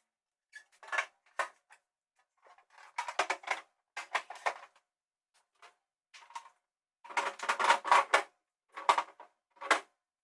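Irregular bursts of quick clicking and clattering, with short silences between, as items are handled while a refrigerator is cleaned out.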